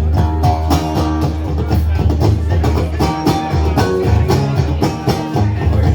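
Rock band playing loud, with guitar over a steady deep bass.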